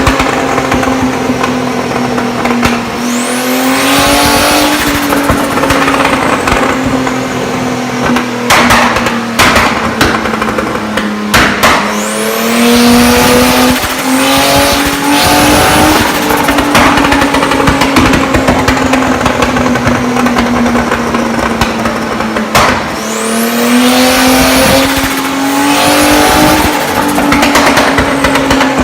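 Turbocharged car engine pulling hard three times, its pitch climbing each time as a high turbo whistle rises over it, with turbo flutter and sharp cracks between the pulls.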